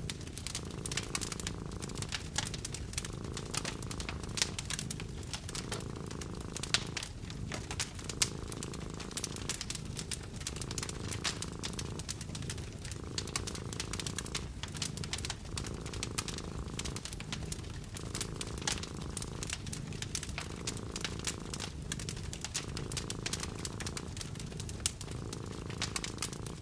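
A cat purring steadily beneath a wood fire crackling, with many sharp snaps and pops.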